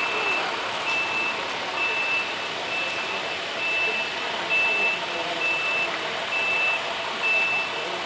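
Truck backup alarm beeping steadily about once a second, one high tone, over steady background noise as a straight truck reverses.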